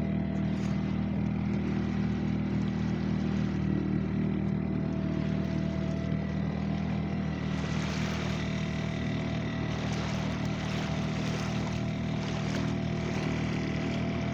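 A motorboat's engine running steadily under way, a low even drone. About halfway through, a rushing hiss of water or wind grows louder over it.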